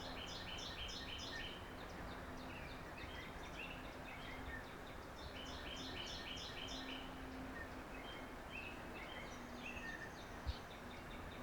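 Small songbirds chirping: quick runs of short, high notes, busiest at the start and again about halfway through, with scattered single chirps between, over a steady faint hiss. One faint short knock near the end.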